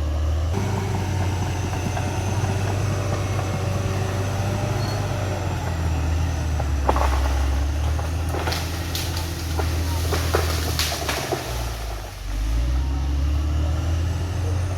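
CAT D6R XL bulldozer's diesel engine running steadily, with a run of sharp knocks in the middle. The engine dips briefly near the end and then picks back up.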